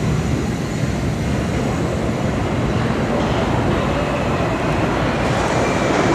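New York City subway train running through the station: a steady rumble that slowly grows louder, with a faint high whine joining about four seconds in.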